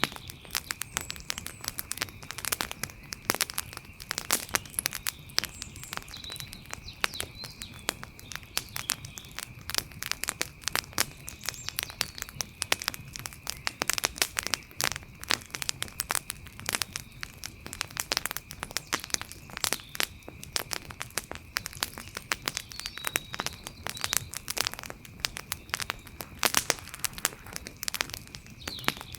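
Wood fire burning and crackling, with dense irregular pops and snaps, a few of them sharper. A faint steady high tone runs underneath.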